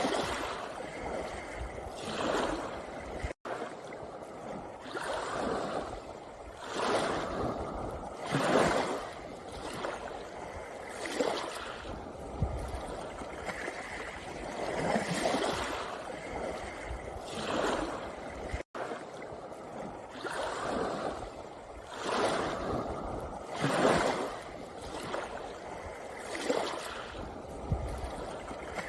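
Small sea waves washing up on a pebble beach one after another, swelling and falling back every two to three seconds. The sound cuts out for an instant twice.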